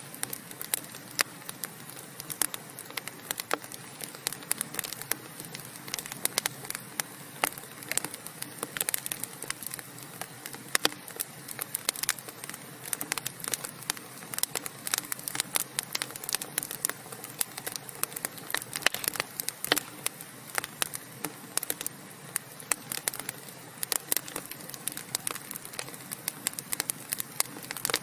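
Burning logs crackling in a fireplace: a steady low hiss with dense, irregular sharp pops and snaps, several a second, some noticeably louder than the rest.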